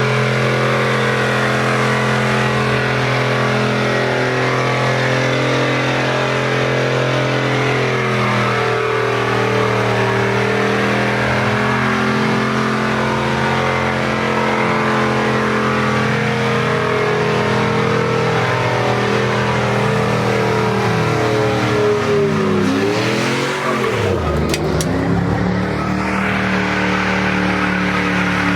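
Car engine running at a steady pitch with road noise. About 22 seconds in, its note swoops down and climbs back up.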